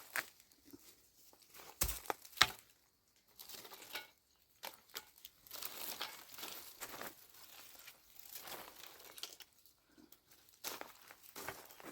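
Irregular rustling and crinkling handling noises with scattered light clicks, and two sharp knocks about two seconds in.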